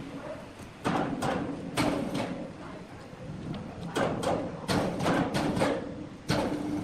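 A series of about a dozen sharp, irregular knocks and clacks, some in quick pairs, over a steady low machine hum.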